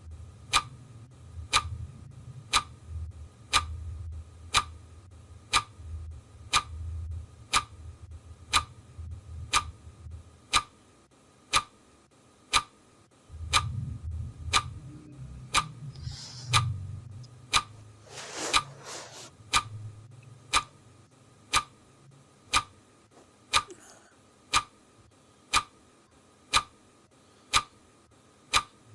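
Clock ticking steadily, one sharp tick about every second. A low rumble sits underneath for much of the first two-thirds, and there is a brief noise about eighteen seconds in.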